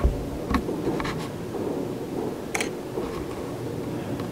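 Distant fireworks going off: a low bang right at the start, then a handful of sharp cracks and pops spread over the next few seconds, the loudest about two and a half seconds in, over a steady low background noise.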